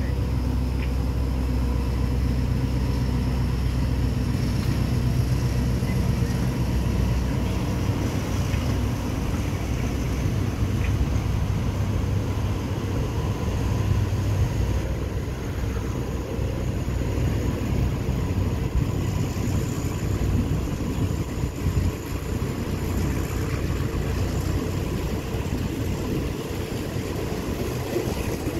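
Passenger train running, heard from an open carriage window as it pulls out of the station and gathers speed: a steady low engine drone with rumbling wheels on the rails, and a faint high whine that slowly rises in pitch.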